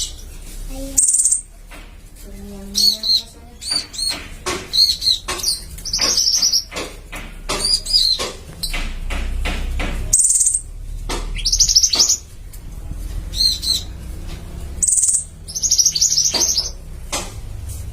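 Small songbirds singing in repeated short, high-pitched chirping phrases and quick trills, one bird answering another.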